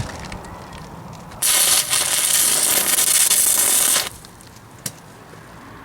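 DC stick welding arc from a 6010 electrode on a Miller Syncrowave 210, crackling steadily for about two and a half seconds while tacking a joint, then cutting off suddenly. A single sharp click follows about a second later.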